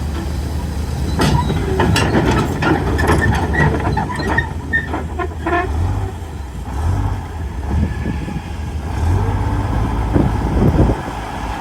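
Heavy diesel earthmoving machinery running steadily, with a burst of sharp metallic clanks, knocks and squeaks for a few seconds about a second in.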